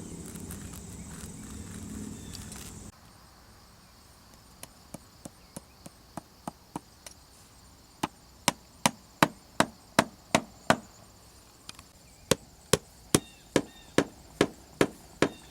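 A hammer tapping in a quick, even series of sharp strikes, about two to three a second, starting about four and a half seconds in and getting louder about eight seconds in. It is fastening carpet onto a wooden top.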